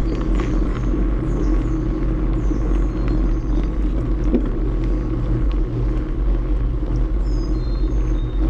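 Steady rumble of wind and tyre noise from a bicycle rolling along a greenway trail, with birds chirping high above it, most in the first two seconds and again near the end.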